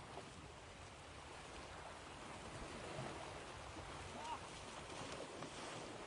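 Ocean waves washing ashore: a soft, steady rush of surf that swells slightly in the middle.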